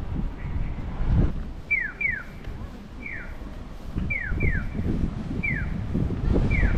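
A bird calling in short whistled notes, each falling in pitch, about seven times and some in quick pairs, starting a little over a second in. A low rumble runs beneath.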